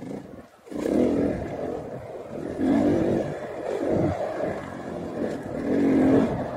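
KTM 500 EXC enduro motorcycle's single-cylinder four-stroke engine revving up and down as the throttle is worked on the trail. The engine sound drops out briefly about half a second in, then swells three times, loudest near the end.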